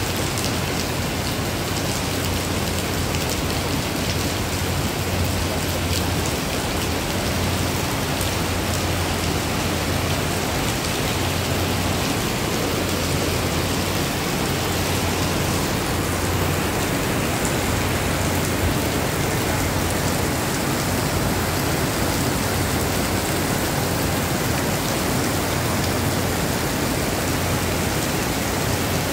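Heavy rain pouring steadily onto wet pavement, a dense, even hiss of a downpour.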